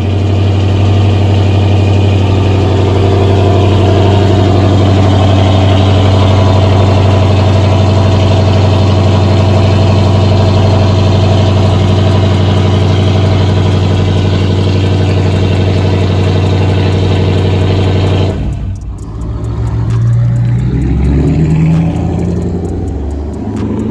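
Dodge Charger R/T's 5.7-litre Hemi V8 through a full straight-pipe exhaust (no mufflers, resonators or catalytic converters), running at a loud, steady cold-start fast idle. About 18 seconds in the note drops and then wavers as the engine comes off the fast idle and is worked lightly.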